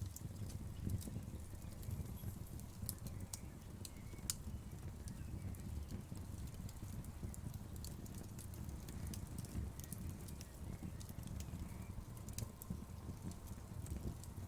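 Fire crackling: scattered, irregular sharp pops and snaps over a steady low rumble.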